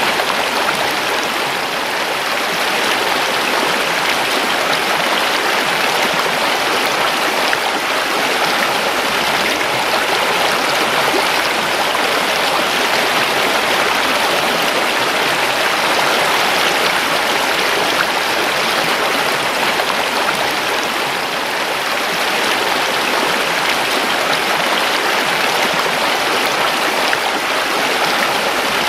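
River water flowing and rushing over rocks, a steady, full splashing rush without pause.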